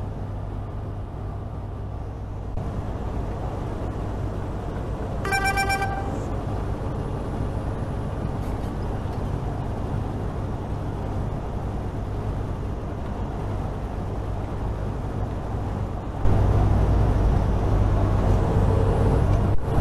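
Truck cab noise: the engine and road rumble run steadily, with a short high beep about five seconds in. The rumble steps up louder about 16 seconds in.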